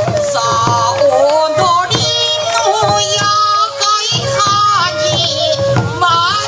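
Traditional Sansa Odori folk music: a voice sings a wavering, ornamented melody over steady taiko drum beats.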